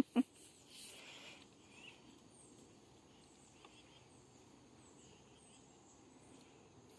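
Two sharp knocks in quick succession right at the start, then faint outdoor background with a small high chirp repeating about twice a second.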